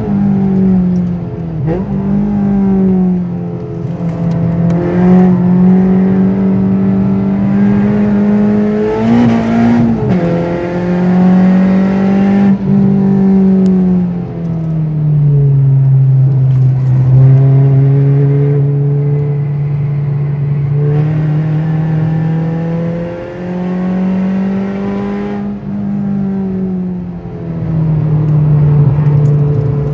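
Car engine running hard on a race track, holding a steady note for long stretches with its pitch dropping and climbing again several times as the revs change through gear shifts and corners.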